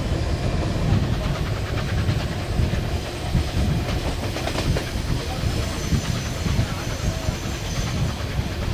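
Passenger train behind Southern Pacific 4449 steam locomotive running at speed, heard from the side of a moving car. Wheels click over rail joints under heavy wind rumble on the microphone.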